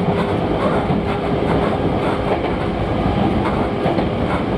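Sangi Railway electric train running at about 60 km/h, heard from inside the driver's cab: a steady rumble of wheels on rail with a steady hum over it and a few light rail clicks.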